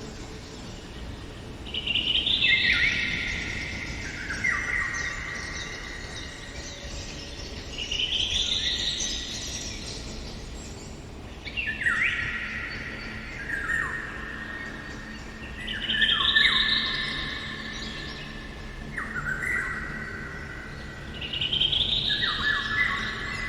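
Songbird singing in a forest: trilled phrases that fall from high to low, repeated every few seconds.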